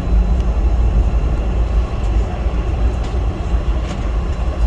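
Cabin noise inside a Boeing 717 heard from a forward seat: a steady, loud low rumble with faint rattles of the airframe and interior.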